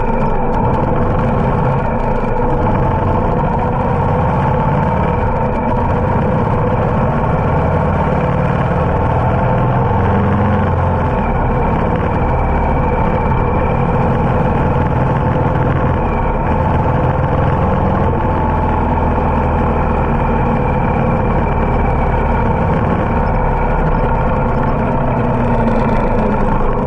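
Harley-Davidson motorcycle engine running steadily while riding.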